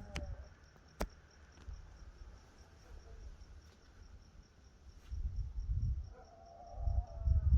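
Crickets chirping in a steady high pulse, about four chirps a second. A sharp click about a second in, and short low rumbles about five seconds in and again near the end.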